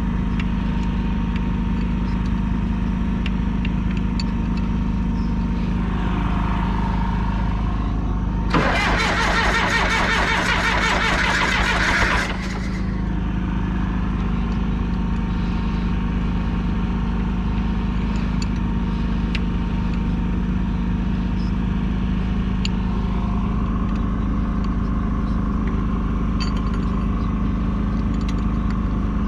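The diesel engine of a 1976 John Deere 450C bulldozer going at a steady speed, with a steady low drone. About eight and a half seconds in, a loud burst of fast rattling hiss starts and lasts about four seconds, then cuts off.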